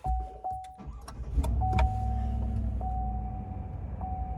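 2022 Chevrolet Silverado's engine starting, flaring briefly and settling to a steady idle. A dashboard warning chime repeats about once a second over it.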